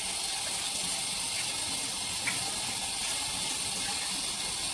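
A steady hiss that holds level throughout, its energy mostly in the upper range, starting and stopping abruptly.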